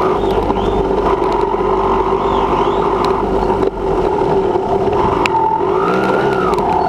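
Motocross dirt bike engine running hard at steady high revs, with a brief drop in throttle about halfway through and a rise and fall in pitch near the end, over scattered clicks and rattles.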